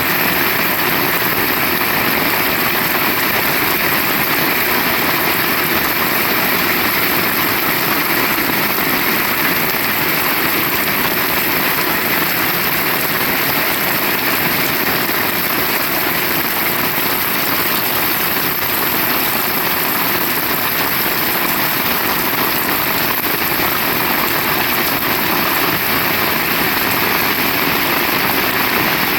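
Heavy rain falling hard, a dense steady hiss that doesn't let up.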